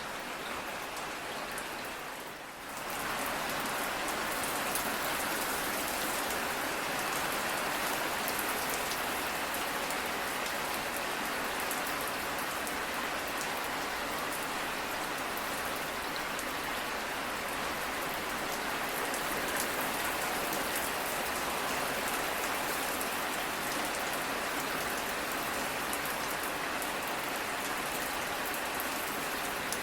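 Steady rain falling, an even hiss of drops. It dips briefly about two and a half seconds in, then comes back slightly fuller.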